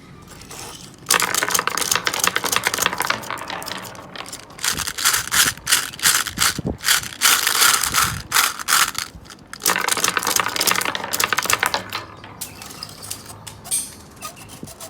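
B-Daman toy and its marbles rattling: dense plastic clattering in several bursts, loudest from about one to twelve seconds, then fading.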